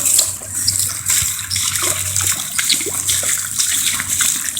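Heavy rain pouring down: a steady hiss with scattered drops and splashes.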